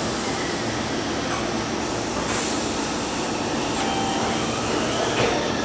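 Meitetsu 2000 series μSKY electric train pulling away from the platform, its running gear and wheels making a steady rumbling noise as it slowly gathers speed.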